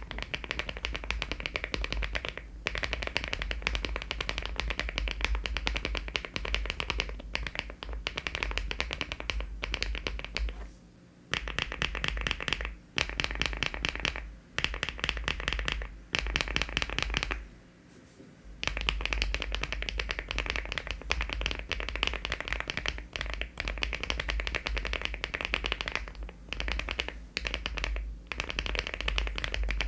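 Fast typing on a LEOBOG Hi75 aluminium-case mechanical keyboard fitted with HMX switches and Cherry-profile keycaps: a dense, continuous patter of keystrokes, with two short pauses about eleven and eighteen seconds in.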